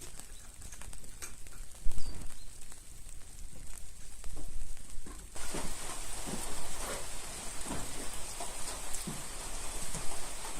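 Steady rain hiss that comes in suddenly about halfway through, with scattered light knocks over it.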